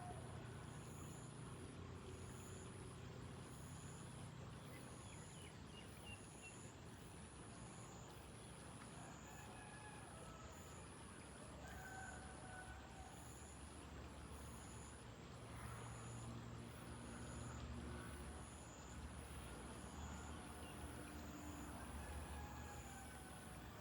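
Faint outdoor background noise: a steady low rumble like distant traffic, with a thin high-pitched pulsing about once a second and a few faint, short higher tones scattered through it.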